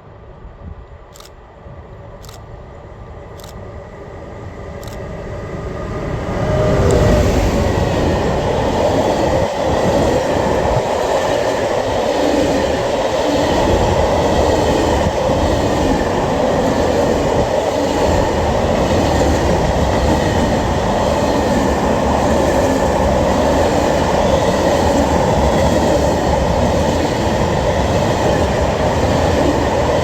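A train approaching, growing steadily louder over the first several seconds. It then passes close by in a long, steady rumble of rolling wagons, with a repeating clatter of wheels over the rail joints.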